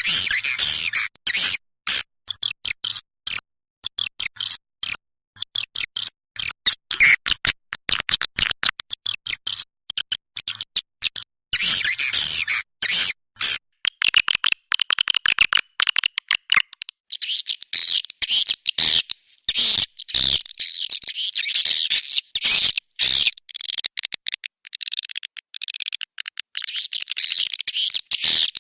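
Recorded swiftlet calls played as a lure track: rapid, high twittering chirps chopped into short bursts with abrupt silent breaks. In the second half they run on as a denser, unbroken twitter.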